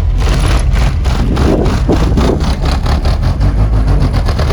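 A car-audio system's subwoofers play very loud, deep bass, with a rapid rattling pulse over it that quickens after a couple of seconds.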